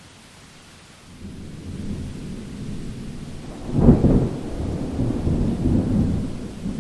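Thunder over steady rain: a low rumble builds about a second in, breaks into a loud clap about four seconds in, and keeps rolling while the rain hisses on.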